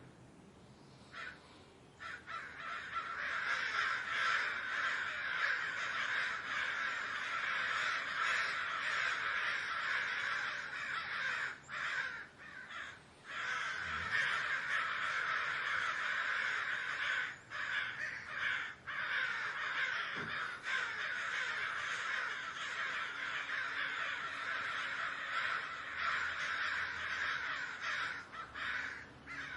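A flock of crows cawing, many calls overlapping almost without a break, starting up about two seconds in after a brief lull.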